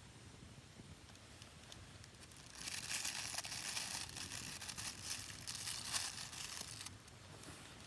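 Crinkling and crumpling of something being handled, a dense rustle that starts about two and a half seconds in and lasts about four seconds.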